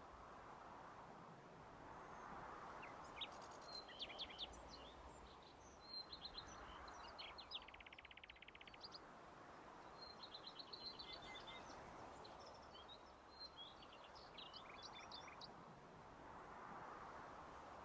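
Faint songbird song: strings of quick high chirps with a rapid, even trill about halfway through, over a soft rushing background that swells and fades every few seconds.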